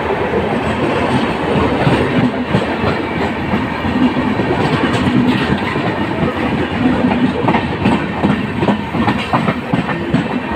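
Two passenger trains running side by side on parallel tracks: a loud, steady rumble of steel wheels on rail, with the clickety-clack of wheels over rail joints. The clicks grow sharper and closer together near the end.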